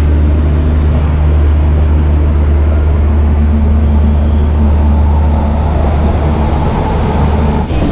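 Passenger train coach running on the track, heard from its open doorway: a loud, steady low rumble of wheels and running gear. The sound breaks off abruptly near the end.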